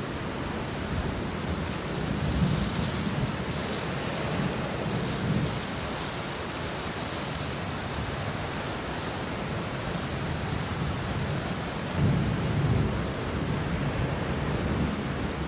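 Homemade thunderstorm sound effect: steady rain hiss with low rolling thunder rumbles, one a couple of seconds in and a louder one about twelve seconds in.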